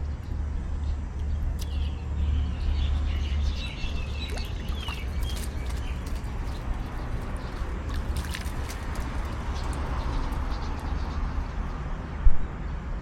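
Outdoor ambience of a steady low rumble, with high chirping animal calls for a few seconds near the start, scattered sharp clicks, and a brief thump near the end.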